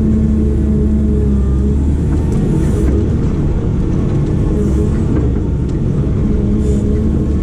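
Diesel engine of a heavy construction machine running steadily under work, with a few brief hissy sounds about three, five and seven seconds in.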